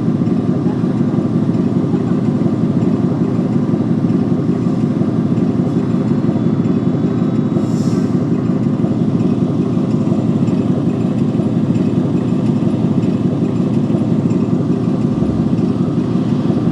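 A steady, loud low rumble that never lets up, with a brief high hiss about eight seconds in.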